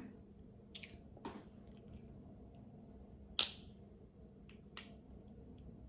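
Sharp cracks and snaps of a crab leg's shell being broken apart and picked at while eating, a handful of separate clicks with the loudest about three and a half seconds in.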